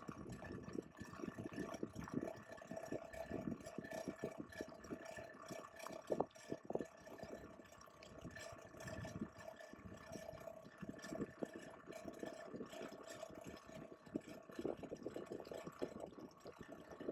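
Water splashing and gurgling in irregular bursts, with a steady mechanical hum holding a constant tone underneath.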